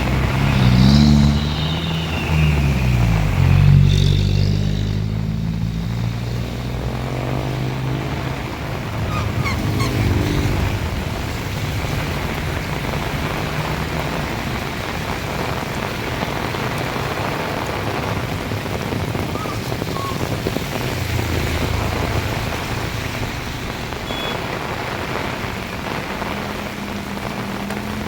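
Heavy rain pouring steadily. A motor vehicle passes close by in the first few seconds, its engine note falling as it goes, and another passes about eight to ten seconds in.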